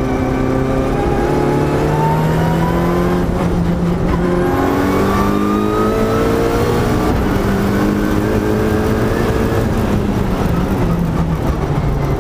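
Mitsubishi Lancer Evolution's turbocharged four-cylinder engine, heard from inside the cabin, pulling hard on track: its pitch climbs, drops sharply at a quick upshift about three seconds in, climbs again to a second upshift around seven seconds, then holds steadier toward the end.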